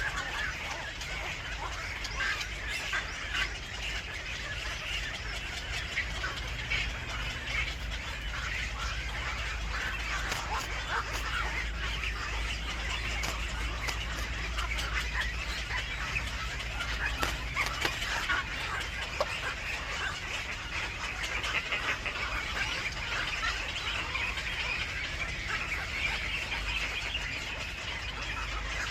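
Birds chirping and calling continuously, many short calls overlapping, over a steady low rumble.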